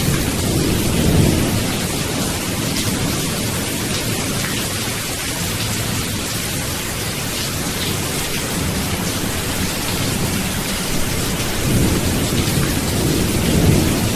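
Steady heavy rain with low rolling thunder; the rumbles swell about a second in and again near the end.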